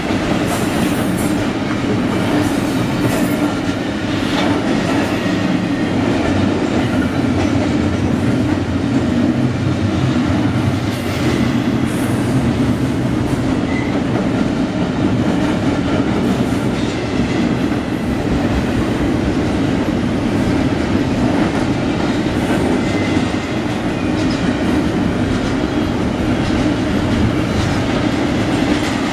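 Double-stack container freight cars rolling past, a loud, steady rumble of steel wheels on rail with scattered clicks and faint high wheel squeals.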